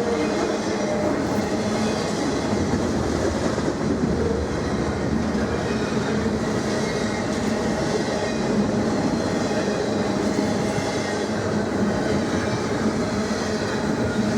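Intermodal freight train rolling past, its wheels running steadily on the rails.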